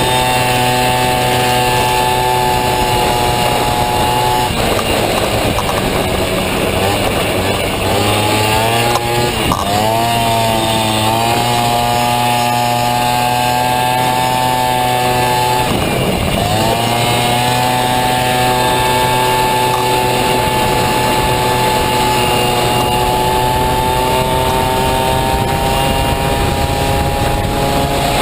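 Small Honda Dio scooter engine in a Honda Motocompo running hard at high revs. The engine note drops sharply three times, about 5, 9 and 16 seconds in, and climbs back each time.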